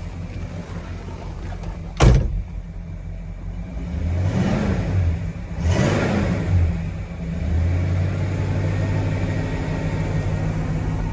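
1965 Pontiac Grand Prix V8 idling, with a sharp thump about two seconds in, then two quick blips of the throttle that rise and fall before it settles back to a steady idle.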